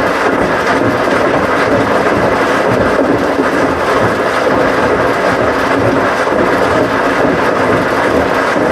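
Washing machine running: a loud, steady mechanical noise with no breaks.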